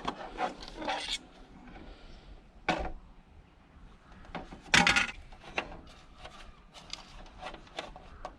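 Plastic heater casing and parts being handled and knocked during a teardown: scattered clicks and rattles, a knock a little under three seconds in and a louder clatter about five seconds in.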